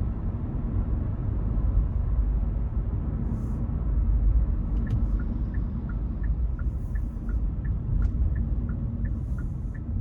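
Low road and engine rumble inside a moving Hyundai Casper. About halfway through, the turn-signal indicator starts ticking in an even two-note tick-tock, about three ticks a second.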